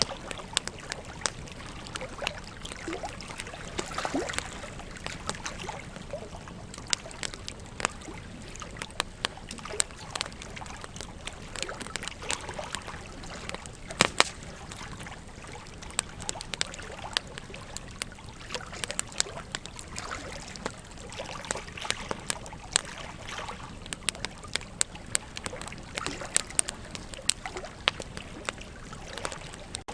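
Wood fire crackling, with frequent sharp irregular pops and snaps, over a steady rush of flowing river water.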